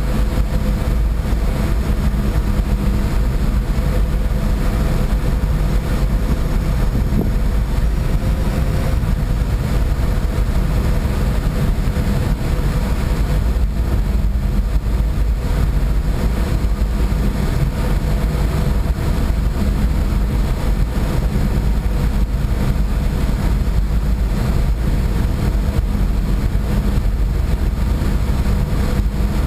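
A boat's engine running steadily, heard aboard as a loud, unchanging low drone with a noise wash over it. A faint steady hum tone fades out about nine seconds in.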